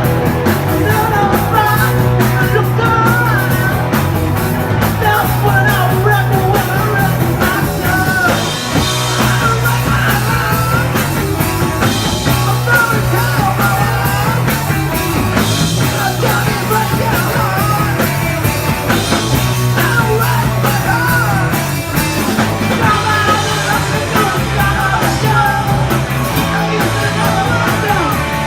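Punk rock song with distorted guitars, bass and drums, and shouted singing over them.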